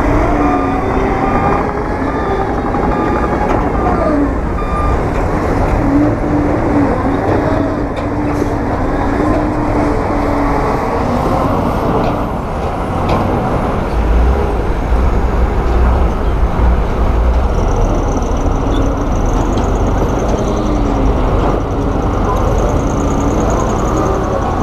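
Heavy diesel construction machinery running under load, the engine pitch rising and falling as it works. A reversing alarm beeps for the first couple of seconds, and a deeper low rumble swells about halfway through.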